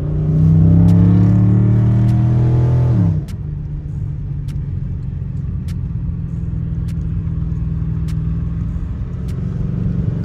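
Car engine pulling hard under throttle for about three seconds, then dropping in pitch as the throttle is let off, and settling into a steady low rumble at cruise.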